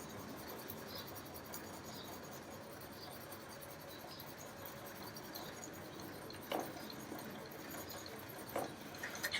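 Faint steady background hiss with a soft click about two-thirds of the way through and a couple more near the end.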